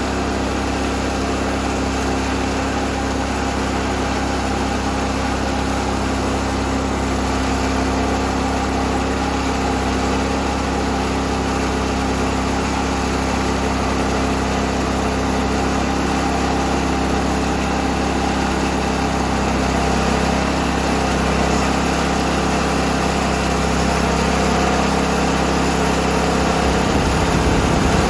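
Portable band sawmill running steadily through a cut in a black walnut log, its engine holding an even, unbroken hum. About a second before the end the low hum changes.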